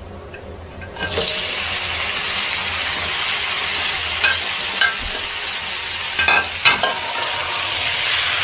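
Duck meat going into a hot pan of oil with fried garlic and chillies: a loud, steady sizzle starts suddenly about a second in. A spatula clicks against the pan a few times as the meat is stir-fried.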